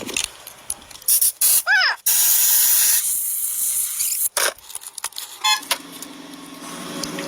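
Several sharp clicks and knocks, a short squeak that rises and falls, then about a second of loud hissing spray starting about two seconds in, followed by further knocks and a low steady hum near the end.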